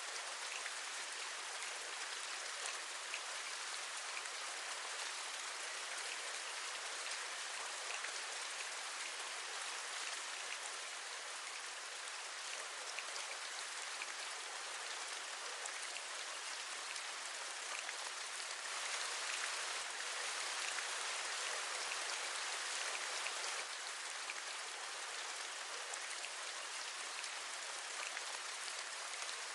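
Steady rain: an even hiss with individual drops ticking through it, growing a little heavier for a few seconds about two-thirds of the way through.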